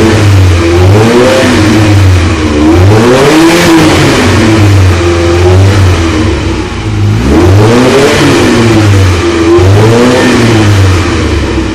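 Ferrari 308's V8 through a Stebro aftermarket exhaust, revved in a series of quick throttle blips, the pitch rising and falling each time, in two bursts with steadier running between them.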